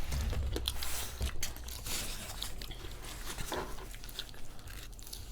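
Close-up chewing and crunching of Doritos nachos: a scattered run of small crunchy clicks, busiest in the first second or so.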